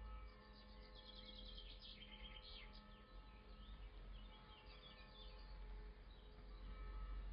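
Faint birds chirping in quick series of short high notes, twice, over a low steady rumble.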